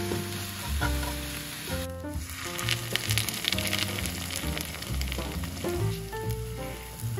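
Frying sizzle: sliced pork and mushrooms sizzling as they are stirred in a pan, then, about two seconds in, a breaded pork cutlet deep-frying in hot oil, bubbling with a crackle of spattering.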